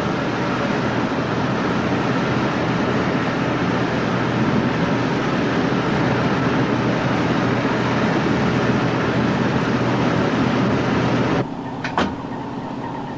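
Steady, loud rumbling noise of a boat under way at sea, engine and wind together. Near the end it cuts suddenly to a quieter low hum, with a single sharp knock.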